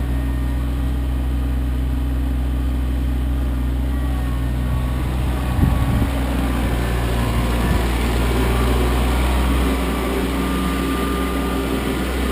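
Kioti CK25 compact tractor's three-cylinder diesel engine running steadily, with a couple of brief clunks about halfway through.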